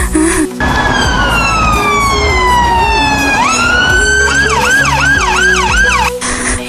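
Emergency-vehicle siren, likely an ambulance sound effect. It gives one long falling wail, sweeps back up, then switches to a fast warble of about three rises and falls a second, over low background music.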